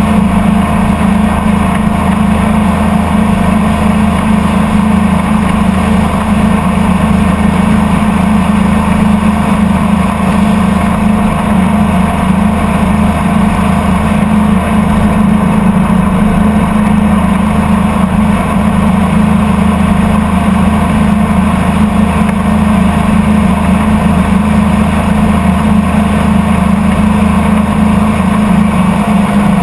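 Motorboat's engine running at a steady speed while the boat is under way, loud and unchanging.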